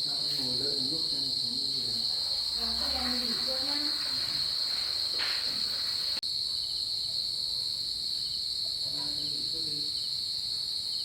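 Crickets chirring in a steady, high-pitched trill, broken by a momentary dropout about six seconds in.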